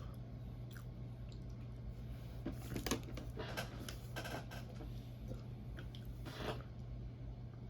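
Close-miked chewing of soft pancakes: wet, irregular mouth sounds in bursts, loudest about three seconds in and again near the end.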